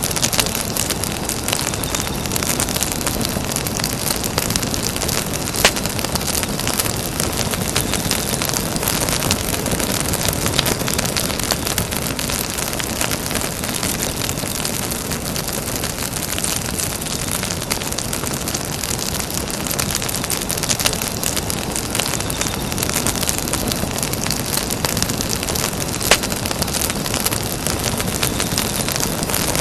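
Campfire burning: a steady hiss full of small crackles, with sharper wood pops about six seconds in and near the end.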